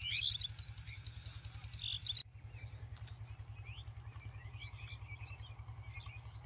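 Small birds chirping in quick, high calls, busiest in the first couple of seconds and fainter after an abrupt change about two seconds in. Underneath runs a steady, evenly pulsing low mechanical throb, like an engine running.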